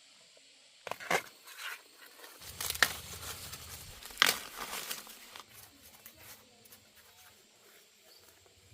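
A few sharp knocks with rustling and crinkling in between, as of things being handled.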